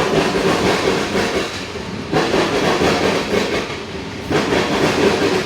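Freight train cars rolling past, their wheels clattering over the rail joints in a clickety-clack that swells about every two seconds.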